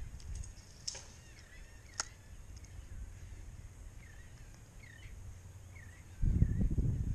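A bird calling repeatedly in short swooping chirps over a low wind rumble, with two sharp clicks about one and two seconds in. Near the end, wind buffets the microphone and becomes the loudest sound.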